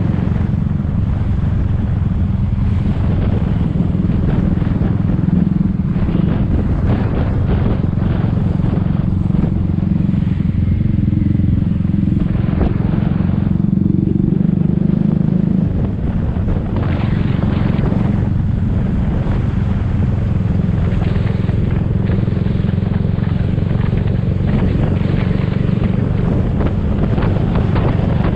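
Motor scooter riding along, its engine running under a steady low rumble of wind buffeting the microphone, with a brief dip about halfway through.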